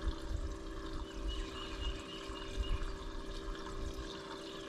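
Water running or splashing over a steady low hum, with a few dull low thumps in the first three seconds.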